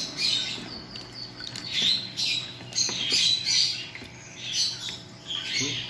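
Birds squawking and chirping in short, high calls that fall in pitch, roughly one a second, with a few faint clicks.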